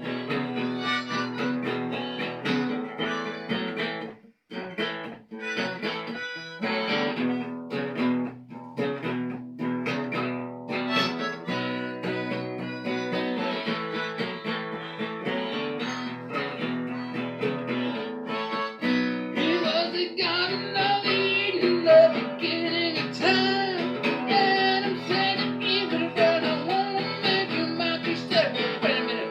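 Blues jam on a plucked-string instrument picked steadily, joined about 19 seconds in by a harmonica playing held, bending notes over it.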